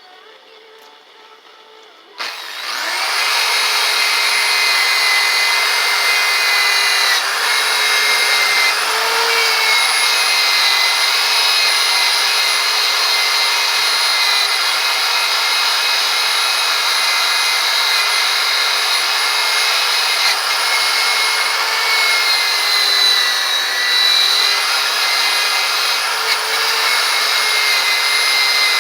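A power tool with a buffing wheel starts about two seconds in and runs steadily with a high whine, which dips slightly in pitch now and then as the wheel takes load against the work.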